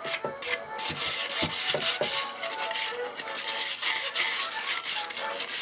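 Brass wire brush scrubbing an aluminum coffee-grinder funnel: a rapid, steady rasping of short back-and-forth strokes.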